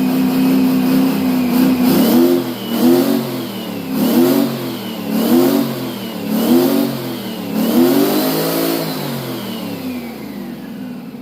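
Twin-turbo 12V71 Detroit Diesel two-stroke V12 held at high revs for about two seconds, then blipped up and down about six times, the last rev the longest, before dropping back. A high whine rises and falls with each rev.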